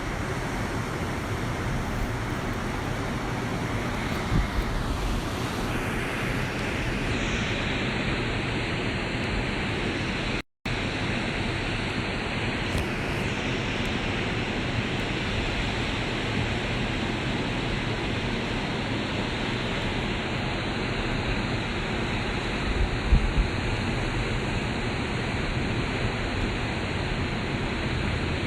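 Steady rushing of ocean surf and wind at the beach, with a few low buffets of wind on the microphone. The sound cuts out completely for a moment about ten seconds in.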